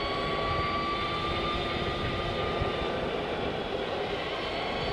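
Energica Experia electric motorcycle under way: the high whine of its electric drive at cruising speed, rising slightly and then holding steady, over a constant rush of wind and tyre noise.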